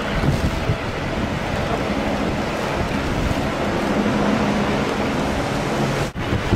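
Strong wind blowing on the microphone over rough sea, with a low steady hum underneath. The sound drops out for a moment near the end.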